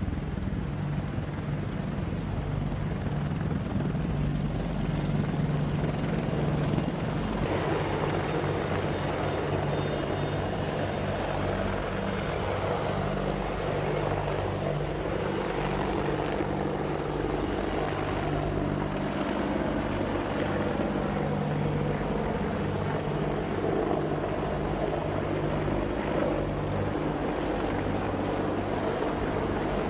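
AH-64 Apache attack helicopter running steadily: the rotor's rhythmic blade chop over the whine and rush of the turbine engines. The pitch sweeps down partway through.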